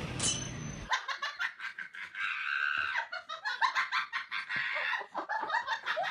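People laughing in quick, high-pitched bursts.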